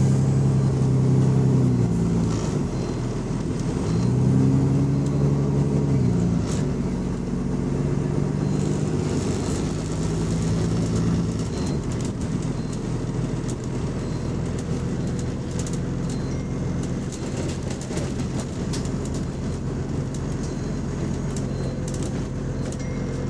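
Diesel bus engine with an exhaust leak: it rises and falls in pitch twice in the first few seconds, then runs at a steady drone.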